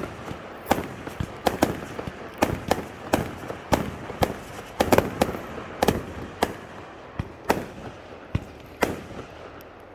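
Fireworks bursting in a rapid, irregular series of sharp bangs, two or three a second, thinning out toward the end.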